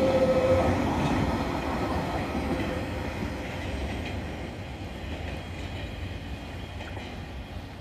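Freight train's flat wagons rolling past on the rails, wheels clacking over the track. The sound fades steadily as the end of the train passes and moves away.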